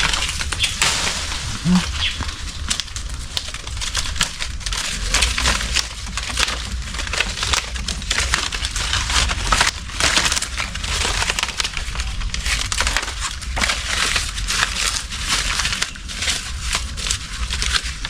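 Fresh leaves being handled and crumpled, a dense, continuous crackling rustle.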